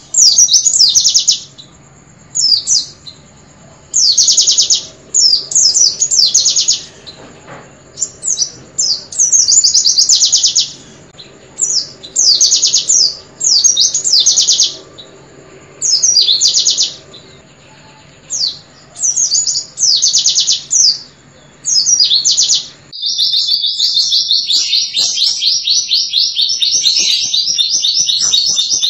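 White-eye (pleci) singing its rapid 'nembak' song: bursts of fast, high, falling trills about a second long with short pauses between, over a faint steady hum. A few seconds before the end it cuts to another recording of white-eye song, an unbroken run of rapid chattering.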